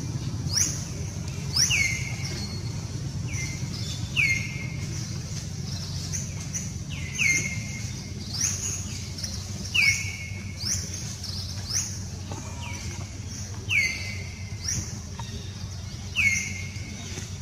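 A bird calling over and over, roughly once every second and a half: each call is a quick falling high note followed by a lower note that drops and then holds. A steady low rumble runs underneath.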